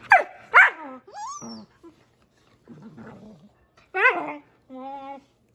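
A puppy yelping and whining: two sharp yelps falling in pitch at the start, a high wavering whine, a low growl about three seconds in, another yelp at four seconds and a held whine near the end, as its mother mouths its head.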